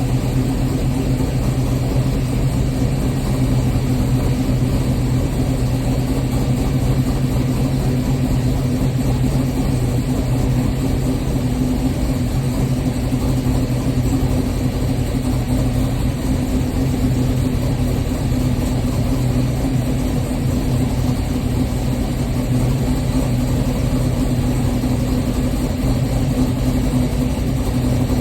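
LS-swapped Oldsmobile Cutlass's 6.0 V8 idling steadily while warming up from a cold start, with an even, unchanging hum.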